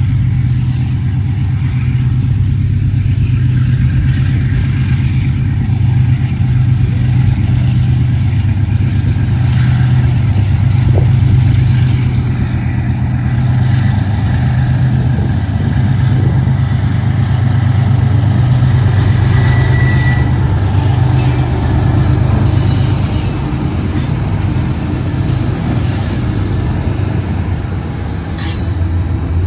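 Part-loaded grain train pulling away behind two diesel locomotives: a steady deep drone from the engines and rolling wagons, with high wheel squeal and scattered clanks and clicks coming in over the second half.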